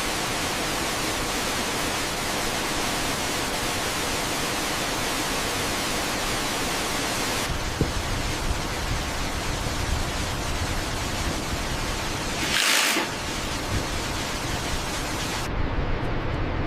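Steady rushing noise of a waterfall, with a short louder splash of noise about two-thirds of the way through.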